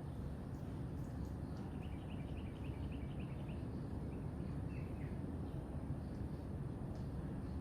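A bird sings a quick trill of short high notes lasting about two seconds, then gives one brief falling note, over a steady low rumble.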